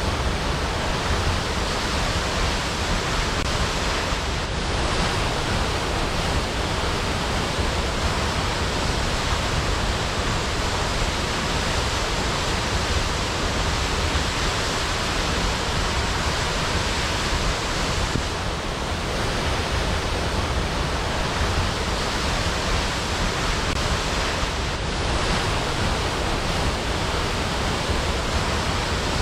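Waterfall: falling water pouring steadily, a dense even rush with a deep rumble underneath.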